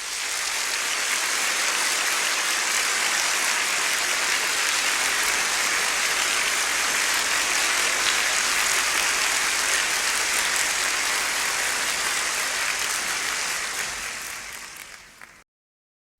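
A steady, even rushing noise with no tones or beat, fading out over the last couple of seconds and then cutting to silence.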